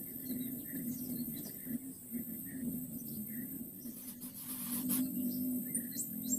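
Faint bird chirps repeating every fraction of a second, over a steady high hiss and a low hum, with a brief rushing hiss about four seconds in.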